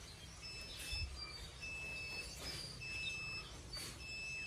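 Electronic alarm beeping from an egg incubator: a string of high-pitched beeps, each about half a second long, repeating over and over.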